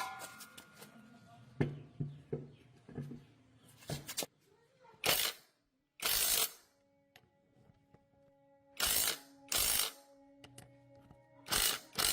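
Soft background music, broken by several short bursts of hissing, each about half a second long.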